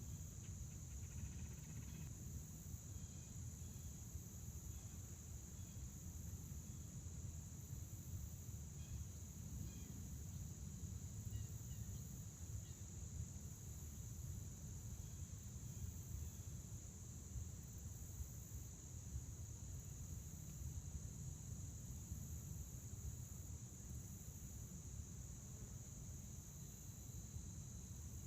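Crickets chirping in a steady, continuous high-pitched chorus over a low rumble, with a few faint bird chirps near the start and again around the middle.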